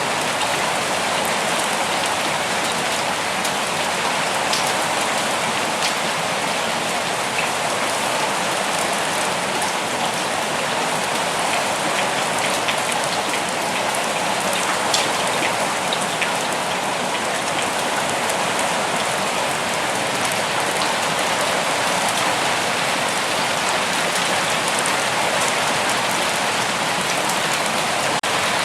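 Steady rain falling, a constant hiss of drops with scattered individual drip ticks.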